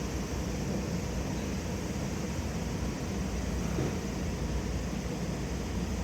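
Steady background noise with a low rumble and no distinct events; no club strike falls in this stretch.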